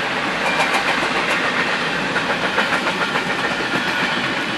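Intermodal freight train rolling past: a steady rush of wheels on rail with light clicks.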